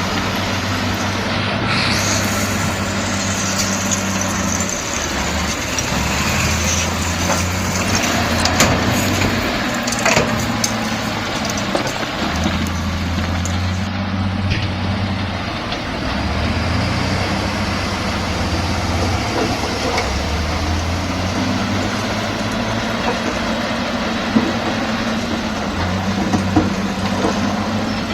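Komatsu D68E bulldozer's diesel engine working, its low note swelling and dropping every few seconds as the load changes, with a few sharp metallic clanks.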